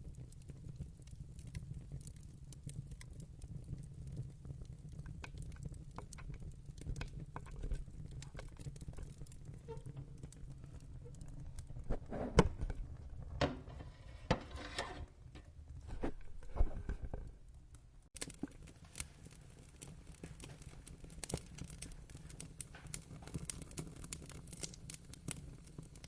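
Wood fire burning in a fireplace: a steady low rumble with scattered crackles and pops, and a louder run of pops and crackles about halfway through.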